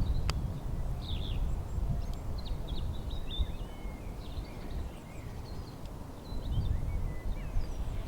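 Small birds chirping over a low, fluctuating rumble, with one sharp click about a third of a second in.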